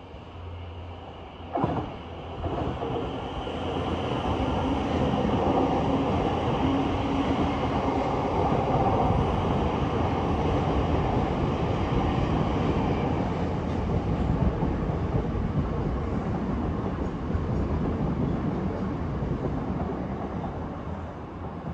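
A train passing, with a sharp knock about a second and a half in, then a steady rumble and rail noise that builds, holds and eases near the end.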